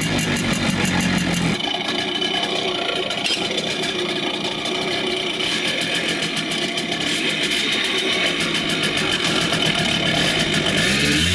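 Simson Schwalbe KR51/2 scooter's small two-stroke engine running steadily, a fast even putter.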